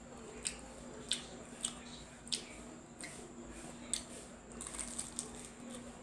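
Close-miked eating of a crunchy breaded tuna pie: a bite and chewing, with sharp crisp crunches and mouth clicks at irregular intervals and a quicker run of them near the end.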